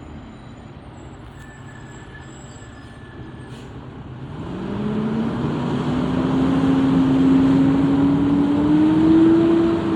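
Fire apparatus engine running low and steady, then from about four seconds in revving up as it pulls away, its pitch climbing slowly and the sound growing much louder.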